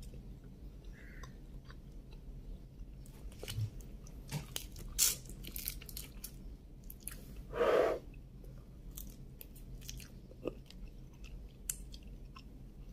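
A person chewing and biting shrimp, with scattered crunchy clicks. One louder, longer wet mouth sound comes about eight seconds in.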